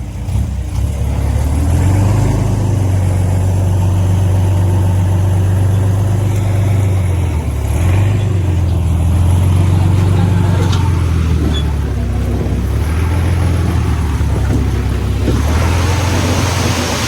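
Diesel engine of heavy earthmoving machinery running under load, its pitch rising and falling as it works. A hiss comes in near the end.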